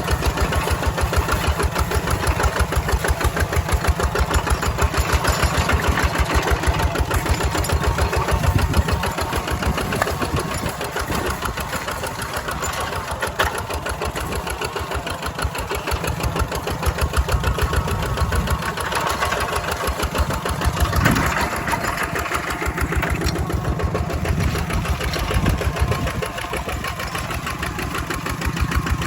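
Walking tractor (two-wheel hand tractor) engine running steadily with a rapid, even chugging, its loudness rising and falling a little as it works.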